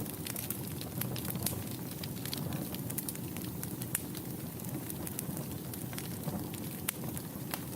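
Wood fire burning in a fireplace: a steady low rumble with frequent, irregular crackles and snaps of burning wood.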